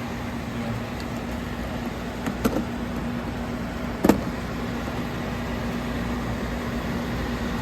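2010 Everstar 10,000 BTU portable air conditioner running steadily at high fan speed with its compressor on: a steady rush of air over a constant hum. Two brief knocks come about 2.5 and 4 seconds in.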